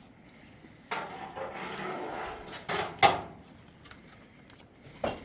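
Handling noise with scraping and sharp wooden knocks: a rustling scrape starts suddenly about a second in, two knocks follow close together near three seconds, the second the loudest, and another comes near the end.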